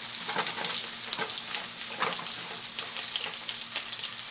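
Diced onion, brinjal (eggplant) cubes and green chilies sautéing in oil in a frying pan, stirred with a wooden spoon: a steady sizzling hiss with frequent small crackles.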